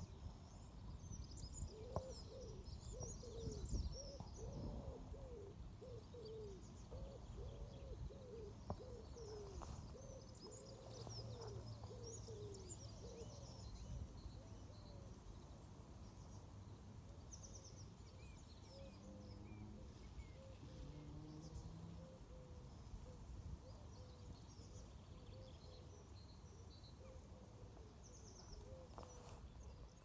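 Faint outdoor birdsong: high chirps and twitters from small birds throughout. Under them, a low cooing note repeats about twice a second, strongest for the first dozen seconds and fainter after.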